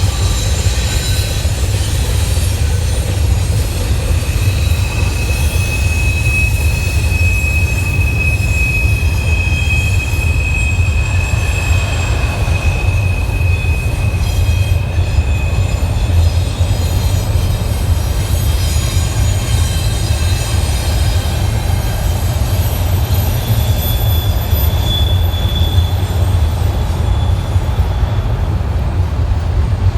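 Freight train rolling past with a steady heavy rumble, its wheels squealing: a long high-pitched squeal a few seconds in and a shorter one near the end.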